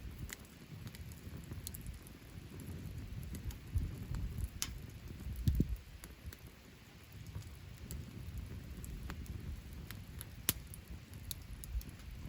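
Wood campfire burning, with scattered crackles and sharp pops over a low, uneven rustle; the sharpest pop comes about ten seconds in.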